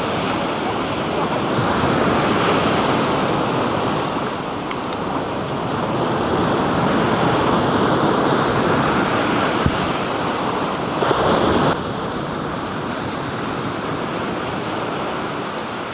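Black Sea surf washing on the shore, a steady rush that swells and eases as waves come in, with a brief louder surge about two-thirds of the way through.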